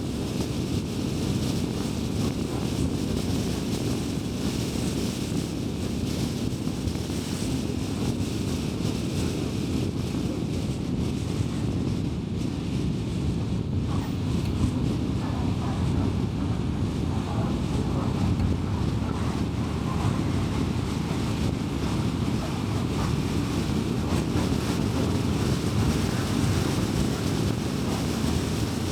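A car driving steadily at road speed: a constant low rumble of tyre, road and engine noise with no changes in pace.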